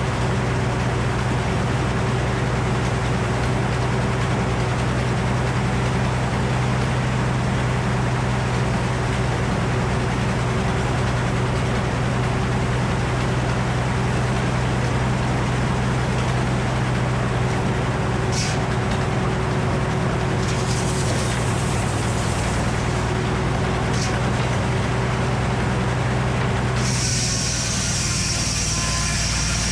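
A large engine running steadily at an even speed, with a constant hum. The sound changes abruptly near the end.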